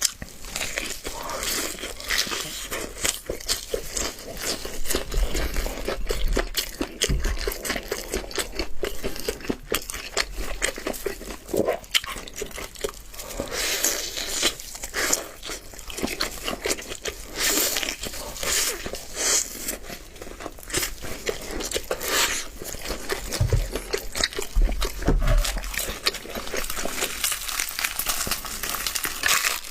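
Close-up crunching, biting and chewing of crispy double-fried chicken drumsticks in a flour coating, with dense, irregular crackles of the crust.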